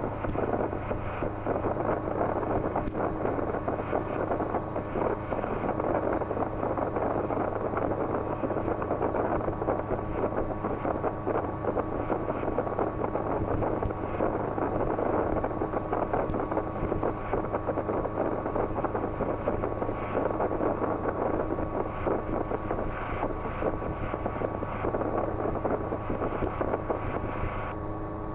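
Schweizer 300C light helicopter in flight: its piston engine and rotors run steadily with wind noise, a constant low hum under a dense rushing noise, heard from inside the cabin.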